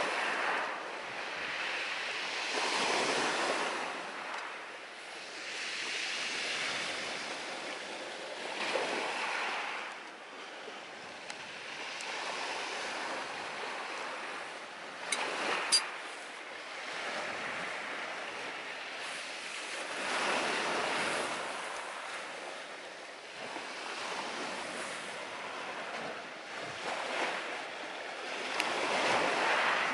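Sea surf: waves breaking and washing up the shore, swelling and fading every few seconds. A couple of sharp pops sound about halfway through.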